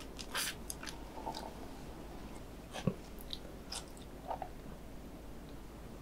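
Close-miked mouth sounds of chewing a last mouthful of spicy stir-fried instant noodles: a few soft, scattered wet clicks and smacks.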